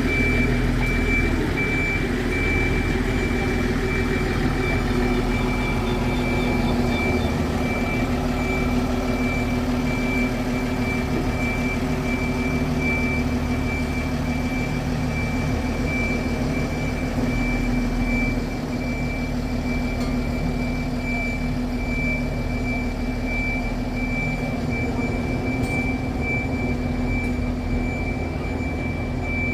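Electronic warning beeper sounding in rapid, even pulses over a steady low mechanical hum.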